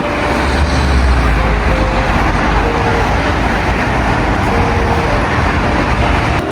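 Steady, loud motor-vehicle noise: a low engine rumble, heaviest in the first couple of seconds, under a dense roar of road or engine noise.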